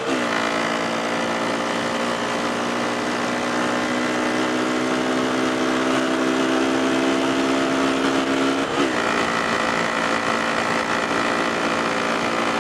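Motorcycle engine running at a steady speed while riding. The revs drop once right at the start and change again about nine seconds in.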